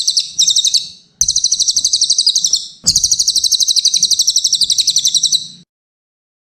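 Cililin songbird singing rapid, high-pitched trills of about nine notes a second, in three phrases, the last one longest. It stops about a second before the end.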